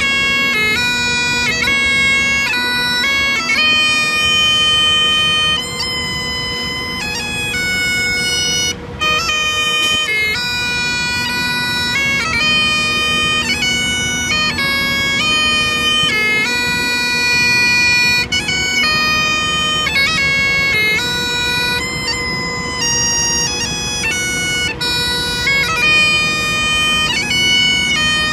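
Bagpipes playing a tune: a melody of changing held notes over steady, unbroken drones.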